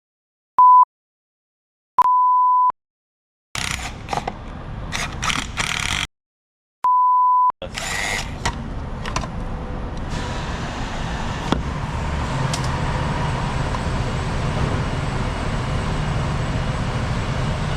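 Three short, loud, pure-tone censor bleeps with dead silence between them and a burst of clatter, then the ambulance's engine running steadily from about halfway in, as the new Kussmaul auto-eject is tested with the vehicle started.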